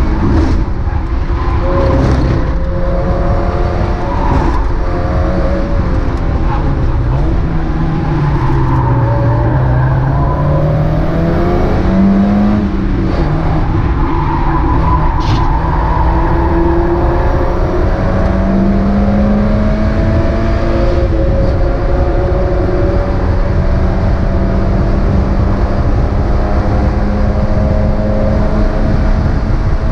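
Mazda MX-5 race car's four-cylinder engine under racing load, its note dropping and climbing with braking, gear changes and acceleration, over steady road and wind noise. A few sharp clicks or knocks cut through it.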